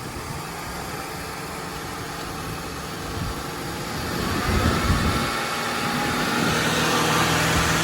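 Car engine running at idle, then revved from about halfway through, getting louder with a higher whine coming in over the engine hum. This is the noise the men are chasing, which may be the power steering.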